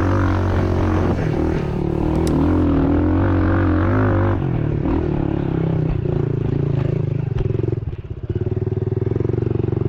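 Honda CRF110F pit bike's small single-cylinder four-stroke engine working over rough trail, its revs rising and falling for the first few seconds. After about four seconds it settles into lower, pulsing revs, with a short drop-off of throttle about eight seconds in.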